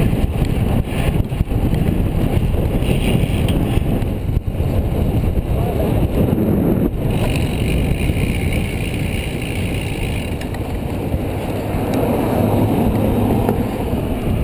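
Steady wind rush buffeting the microphone of a camera on a road bicycle riding in a group at about 30 mph.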